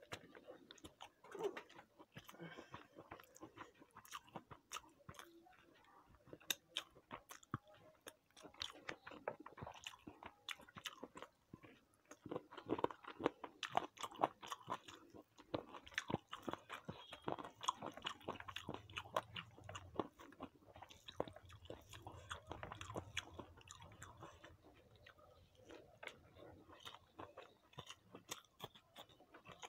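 A person chewing food close to the microphone: a steady run of small, irregular wet clicks and crunches.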